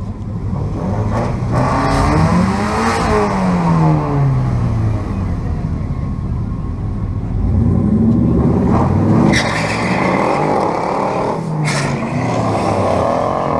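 Car engine at a drag strip, revving up and dropping back several times: it rises to a peak and falls away about three seconds in, again about eight seconds in, and dips and climbs back near the end.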